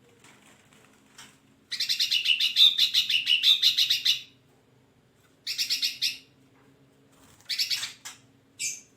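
Hairy-backed bulbul calling: a fast chattering run of repeated high notes lasting about two and a half seconds, then two shorter bursts and a brief higher note near the end. A faint steady low hum runs underneath.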